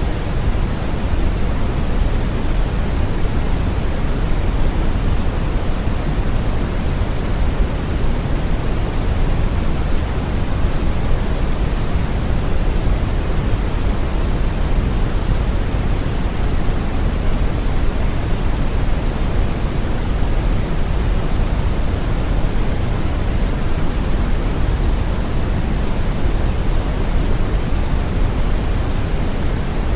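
Steady brown noise: an even, deep rushing hiss, strongest in the low end and fading toward the top, with no change.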